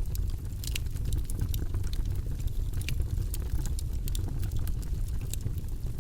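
Wood campfire crackling: frequent sharp pops and snaps at irregular intervals over a steady low rumble.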